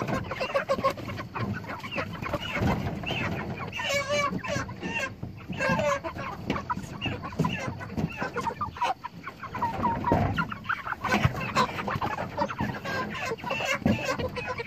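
A crowded flock of broiler chickens clucking, with many short calls overlapping, as the birds are herded forward with a board.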